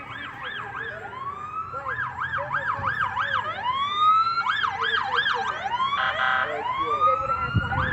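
Sirens of several emergency vehicles sounding together, overlapping slow rising wails with fast yelps at about four cycles a second. A short blaring tone cuts through about six seconds in.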